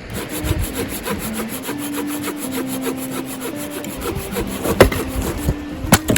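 Hand saw cutting through wood in quick back-and-forth strokes, with two sharp knocks near the end.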